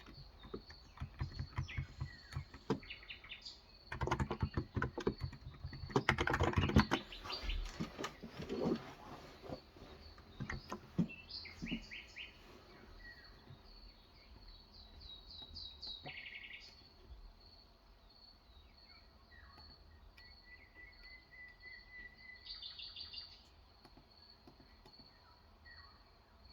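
Typing in bursts on a Cox Endeavor 35 g electrostatic-capacitive tenkeyless keyboard for about the first ten seconds, then mostly birds chirping in short series, with one longer trill about two-thirds of the way in. Under it all runs a steady high pulsing.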